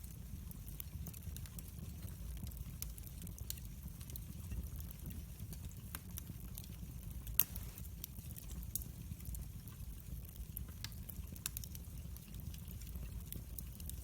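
Wood fire burning in a fireplace: a steady low rumble of flame with scattered crackles and snaps, and one louder pop about seven seconds in.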